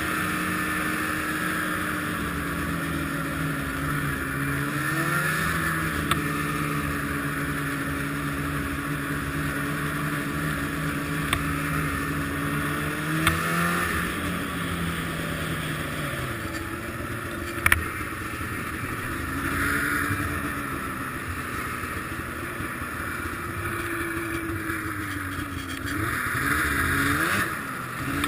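Arctic Cat ZR 800 snowmobile's two-stroke engine running, its note holding steady for long stretches and dipping and rising with the throttle several times, over a constant hiss. The owner suspects bad fuel injectors behind its running problems.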